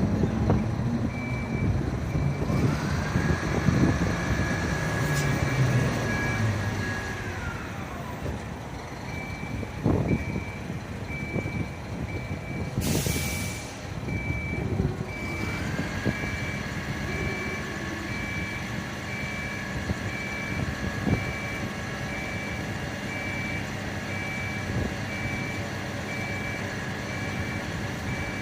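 Fire truck reversing, its backup beeper sounding at an even pace over the running engine. A higher whine rises, holds for a few seconds and falls, then rises again and holds. A short air hiss like an air-brake release comes about halfway through.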